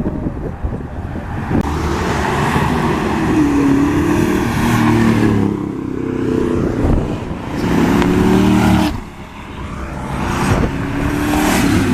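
Car engine running and revving, its pitch rising and falling, loudest about eight seconds in before dropping off sharply.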